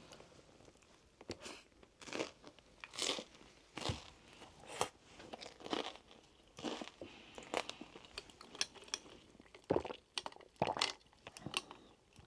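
A person chewing crisp, crunchy food close to the microphone, with crunching bites coming irregularly about once a second.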